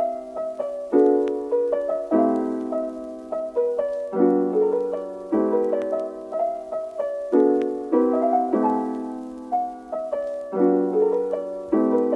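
Background piano music: gentle, slow chords struck and left to fade.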